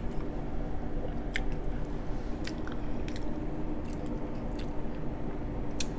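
A person chewing food close to the microphone: scattered short, wet mouth clicks and smacks over a faint steady hum.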